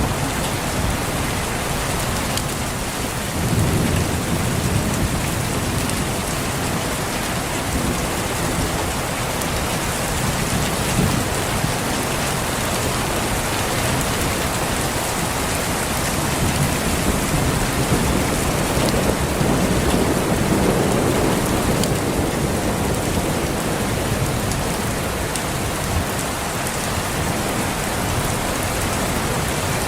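Steady rain falling on foliage and surfaces, with low rolls of distant thunder swelling about three seconds in and again around twenty seconds in.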